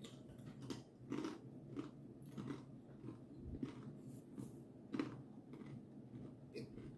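A person chewing Cheez-It Grooves crackers close to the microphone: irregular crisp crunches, roughly one or two a second.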